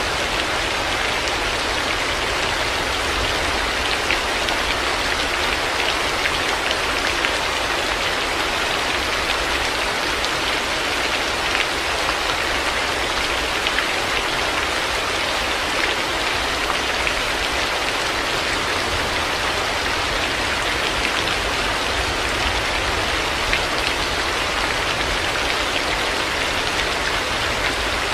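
Heavy rain falling steadily, a dense hiss of drops with fine scattered patters and a low rumble underneath.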